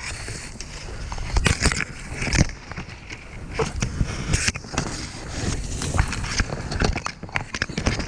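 Irregular crackling, rustling and thudding from footsteps and vegetation as hunters push through thick brush, with a low rumble from the microphone being handled. Several louder knocks come about one and a half, two and a half and four and a half seconds in.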